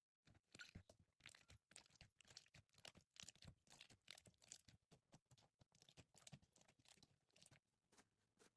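Slime being squeezed and stretched by hand: a faint, dense run of crackling, popping clicks that starts right after a brief silence and thins out near the end.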